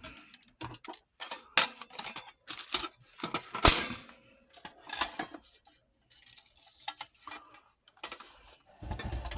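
Irregular hard clicks and knocks of small film equipment being handled, the loudest about three and a half seconds in.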